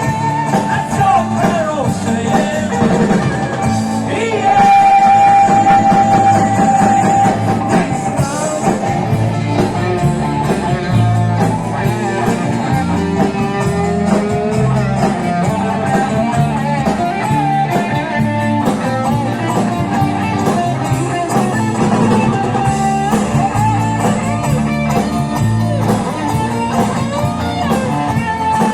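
A live rock band playing a song with guitars and singing.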